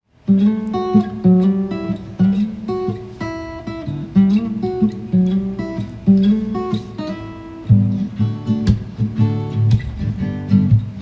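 Acoustic guitar strummed in the instrumental intro of a song. It starts abruptly out of silence right at the beginning and keeps a steady rhythm of chords.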